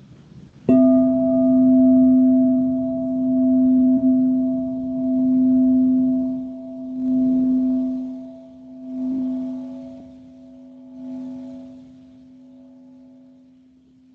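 A singing bowl struck once just under a second in, ringing with a low tone and higher overtones, its loudness swelling and fading in slow waves as it dies away over about twelve seconds.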